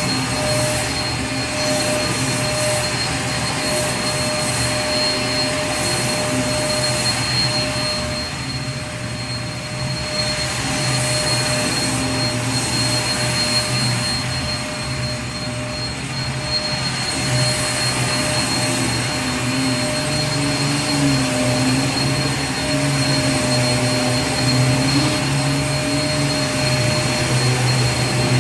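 Vacuum cleaner motor running continuously, a steady rushing whine with a fixed high tone and a low hum beneath.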